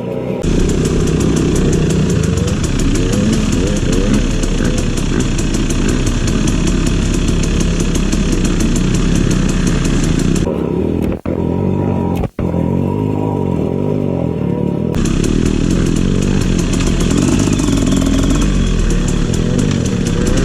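Trail motorcycle engine running under way. It holds steady, goes duller for a few seconds a little past the middle, and has two brief sharp dropouts there.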